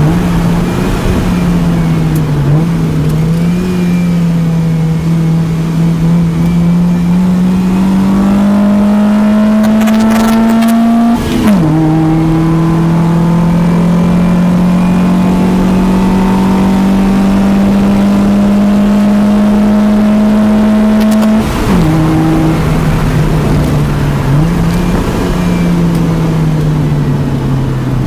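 Naturally aspirated, low-compression Honda D16 SOHC four-cylinder in a Civic, heard from inside the cabin under hard driving on a circuit. The revs climb steadily, drop sharply for a quick gear change about eleven seconds in, then climb in a long pull. The revs fall about twenty-one seconds in, then rise and fall again.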